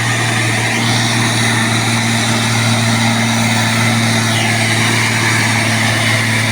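Mitsubishi Fuso heavy truck's diesel engine running at a steady speed, a low even hum.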